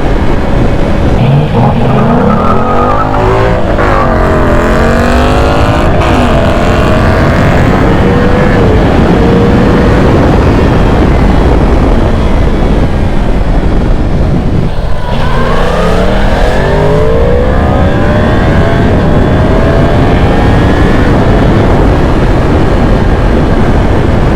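Motorcycle engine accelerating hard twice, climbing in pitch and dropping back at each upshift, under loud, steady wind rush on the helmet-mounted microphone.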